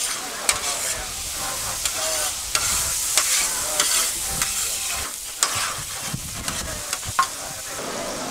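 Meat, bell peppers and onion sizzling in oil in a large paella pan, with a metal spatula scraping and clicking against the pan as the food is stirred and turned.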